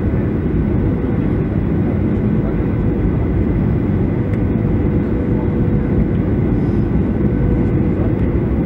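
Steady cabin noise of a Boeing 737-700 with its CFM56-7B turbofan engines running: an even rush heaviest in the low range, with a faint steady hum and whine above it.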